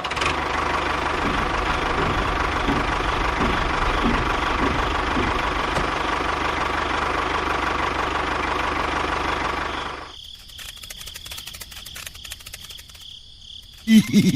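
A small motor runs steadily with a thin whine, then cuts off about ten seconds in. Light, fast ticking follows, and a short, loud, low-pitched pulsing sound starts near the end.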